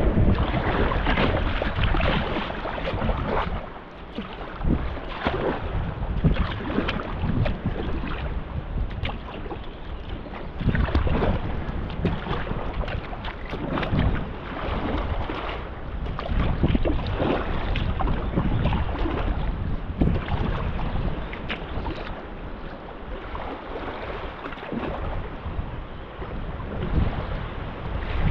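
Water splashing and rushing around a kayak moving on a river, in uneven surges, with wind buffeting the microphone.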